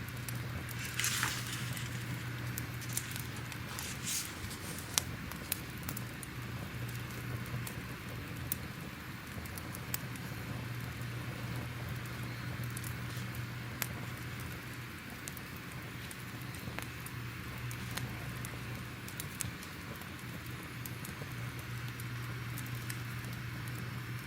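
Fire crackling: irregular sharp pops and snaps over a steady low rumble, with a brief louder hiss about a second in.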